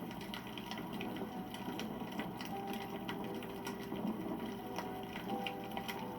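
Wood campfire burning: dense irregular crackling and popping over a steady low rush of flame, with a faint thin whistle coming and going.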